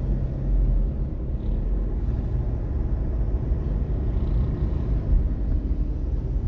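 Steady low rumble of a car's engine and tyres heard from inside a moving car.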